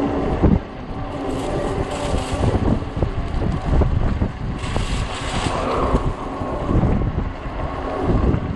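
Wind gusting over the microphone on a moving e-bike, a steady low rumble with irregular buffeting flutters, mixed with road and tyre noise.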